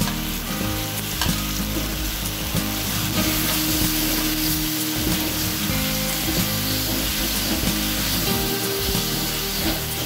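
Blended chili paste and roughly chopped tomatoes sizzling in hot oil in a wok, stirred and pushed around with a metal spatula. A steady hiss of frying runs throughout, with small crackles.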